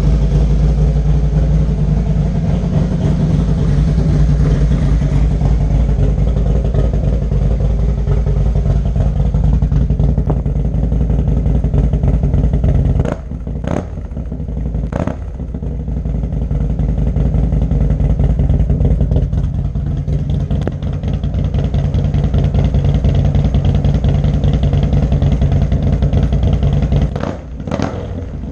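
Harley-Davidson Street Glide Twin Cam 103 V-twin with 585 cams, running steadily through a D&D Fat Cat 2-into-1 exhaust. Its level dips briefly about 13 and 15 seconds in and again near the end.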